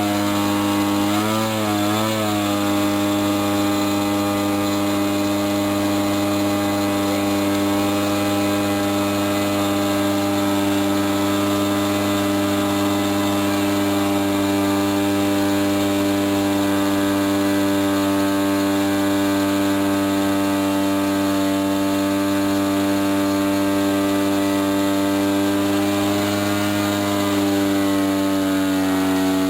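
DLE 30 single-cylinder two-stroke gasoline engine on an RC airplane, with its propeller, running steadily at high throttle during its break-in run. Its pitch wavers briefly a couple of times early on, then holds steady.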